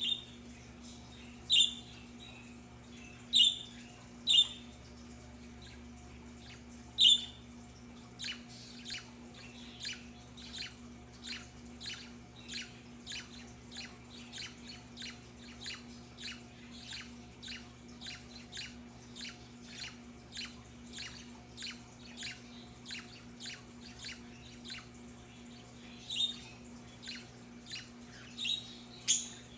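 Budgerigars calling: a few sharp loud squawks in the first seven seconds and again near the end, with a steady run of softer short chirps, about two a second, in between.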